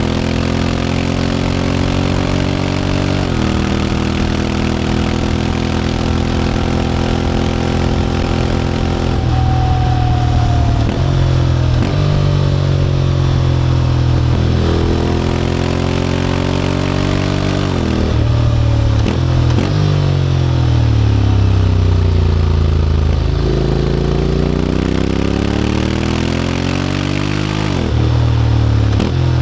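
Honda X-ADV 750's parallel-twin engine through an SC-Project titanium slip-on exhaust, under way. It pulls at a steady pitch, then changes gear several times, the note dropping, sinking as the bike slows and rising again as it speeds up.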